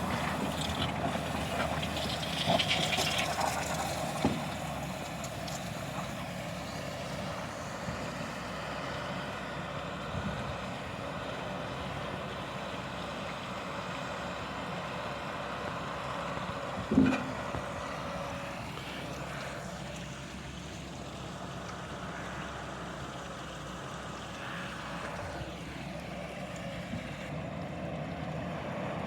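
Heavy machinery engine running steadily, with a few short knocks early on and a louder brief knock about seventeen seconds in.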